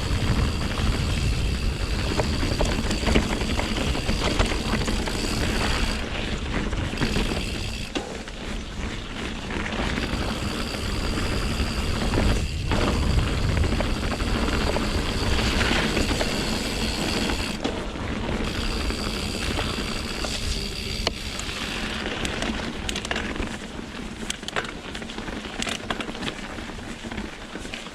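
Mountain bike riding over singletrack, heard from a camera on the bike or rider: wind buffeting the microphone, tyres rolling over dirt and rock, and scattered knocks and rattles from the bike.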